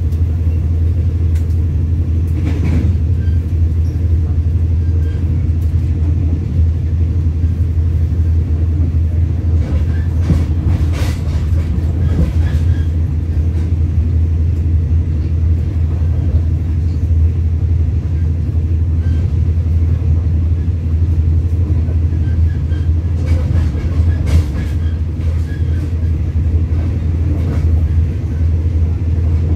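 Passenger train running at speed, heard from inside a coach: a steady, loud low rumble of the wheels and the running gear on the rails, with a few brief rattles and clacks scattered through it.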